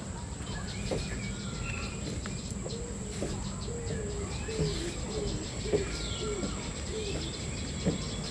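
Aviary birds calling: a run of short, low cooing notes with a few higher chirps between them.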